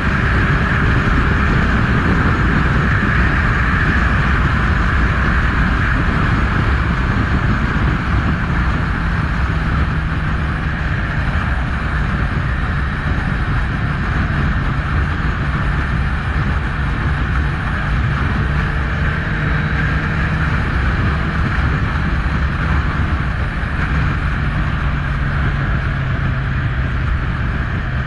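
Kawasaki Z1000's inline-four engine running steadily, its pitch shifting slightly from time to time.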